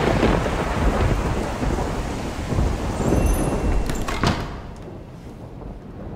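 Thunder rumbling in two long swells, with a sharp crack about four seconds in, after which it dies down.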